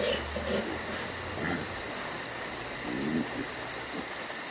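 Crickets chirping in a fast, even, high pulsing trill, with a few faint low sounds near the start and about three seconds in.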